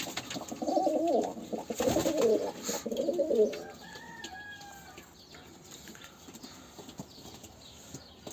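Domestic pigeons cooing, a run of low, wavering coos in the first half, then quieter.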